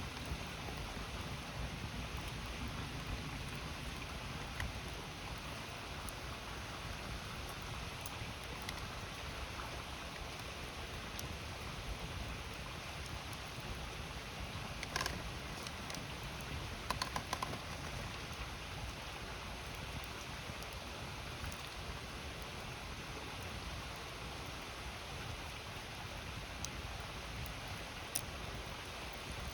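Steady rush of a river with a wood campfire crackling now and then: a sharp pop about halfway through, a quick run of crackles a couple of seconds later, and another pop near the end.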